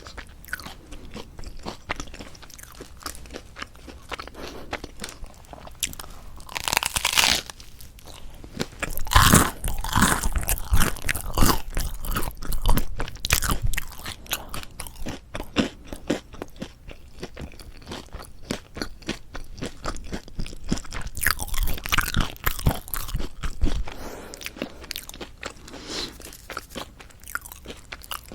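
Close-miked crunching and chewing of a toasted Korean salad bread roll with a crisp, slightly burnt crust. Loud crunchy bites come about a quarter of the way in, again around a third of the way in, and again about three quarters through, with steady crunchy chewing in between.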